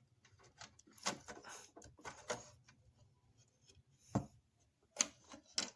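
Scattered faint clicks and taps of small plastic toy parts being handled while the light bar's bulbs are worked on, with sharper knocks about four seconds in and twice near the end.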